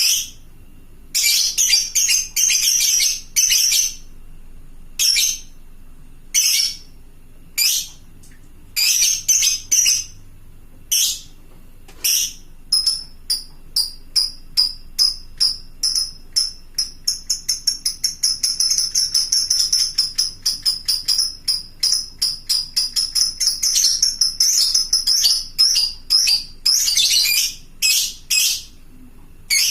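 Fighter-type lovebird in full song: first a few separate shrill chattering bursts, then from about halfway a long unbroken run of rapid, shrill chirps. This is the long 'ngekek' chatter that keepers use as a call to set other lovebirds answering.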